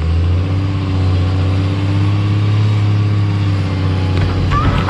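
A large engine running steadily at an even, low pitch.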